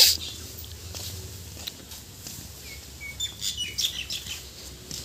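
Small birds chirping in short, high calls, several in quick succession from about two to four seconds in, over a low steady hum. A brief rush of noise right at the start is the loudest moment.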